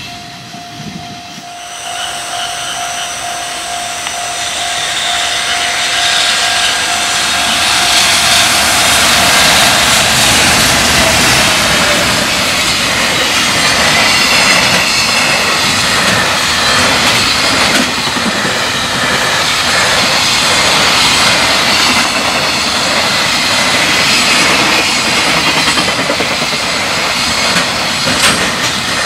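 Freight trains passing at high speed over a level crossing, wheels clattering on the rails, with the electronic warning alarm of a Japanese railway crossing ringing. The train noise swells within the first several seconds and then stays loud.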